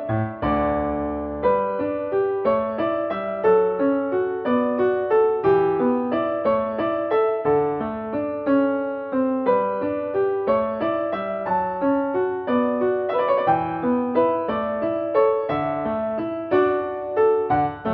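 Background piano music in waltz time: a gentle melody of separate notes over a steady accompaniment.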